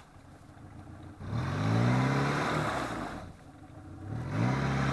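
Off-road vehicle's engine revved hard twice, rising in pitch, held about a second, then dropping back: the driver giving it gas to push through deep mud, the wheels at risk of digging in.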